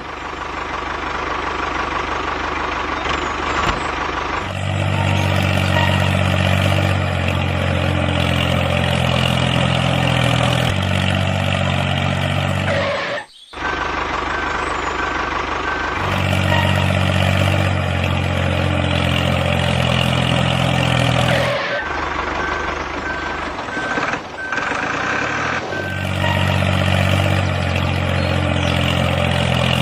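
A vehicle engine running steadily, in several stretches with abrupt changes between them. Twice a run of evenly spaced high beeps like a reversing alarm sounds over it.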